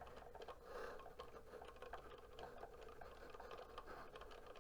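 Faint hum and rapid, irregular light clicking of a Cricut Joy cutting machine as its blade carriage works through a cut.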